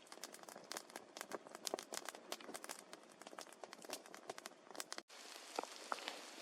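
Light rain pattering, with scattered sharp drop ticks. About five seconds in it cuts off abruptly and comes back as a denser, steadier patter.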